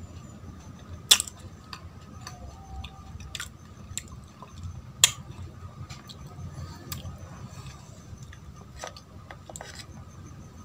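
Close-miked chewing of soft Indian sweets, with sticky mouth clicks and smacks. Two of the clicks, about one and five seconds in, are sharp and loud.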